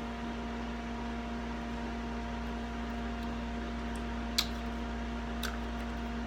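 Steady mechanical hum with a few constant tones running under the room, broken by two short, sharp clicks, the first a little over four seconds in and the second about a second later.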